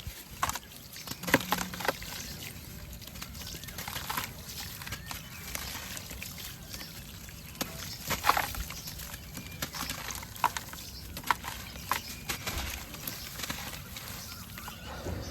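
Pure white cement shapes crumbling in water: irregular crunches, crackles and small wet splashes, with a few sharper snaps, the loudest about a second and a half in and again about eight seconds in.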